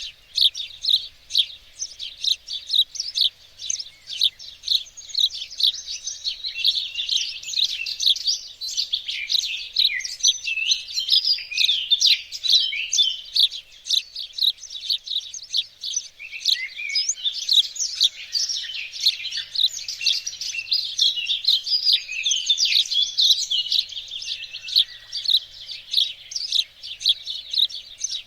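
Many small songbirds singing and chirping together, a dense chorus of quick high chirps and trills that never pauses.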